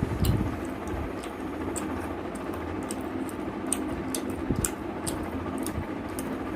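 A person chewing food with the mouth close to the microphone: irregular small wet clicks and smacks, over a steady low background hum.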